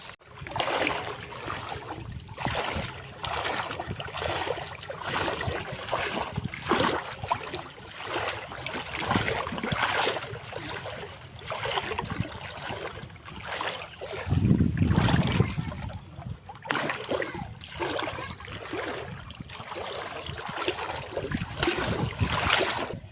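Floodwater splashing and sloshing in a repeated, uneven rhythm, with a louder low rush about two-thirds of the way through.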